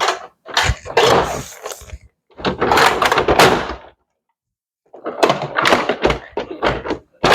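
Plastic toy parts and packaging being handled: a string of knocks and clacks with rustling in between, cutting out for about a second near the middle.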